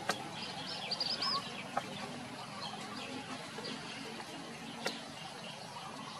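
Outdoor background noise with a quick run of high chirps from birds about a second in, and a couple of sharp clicks.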